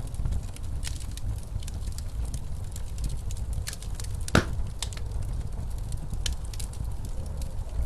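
Wood fire crackling in a fireplace, irregular snaps and pops with one sharp pop about halfway through, over a steady low rumble.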